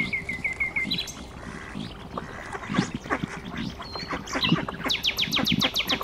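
Birds calling: a quick run of short, even chirps at the start, then a fast trill of falling notes in the last second or so.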